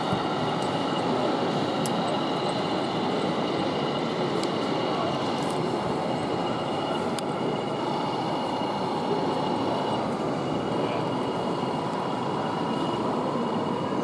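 Steady background hubbub of a crowded exhibition hall, with faint thin steady whines and a few light ticks.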